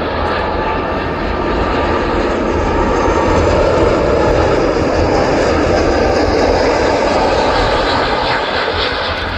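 Jet engines of an Airbus Beluga cargo jet coming in to land, a loud steady noise that swells to a peak midway and then eases off.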